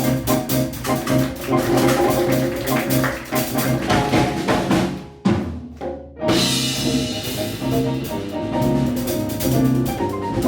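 Live Latin jazz band playing a Brazilian tune: drum kit and hand percussion drive over bass and piano. About five seconds in the band cuts out together after a single accent. About a second later the band comes back in.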